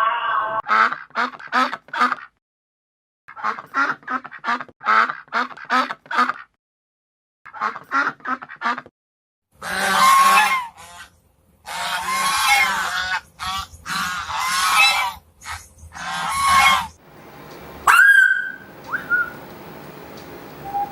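Birds calling in runs of quick repeated calls, followed by a longer, noisier stretch of many overlapping calls; a short whistle-like call near the end.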